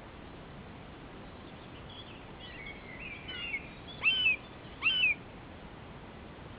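Bird calls: a run of soft chirping notes, then two loud, short calls about a second apart, each rising and then falling in pitch.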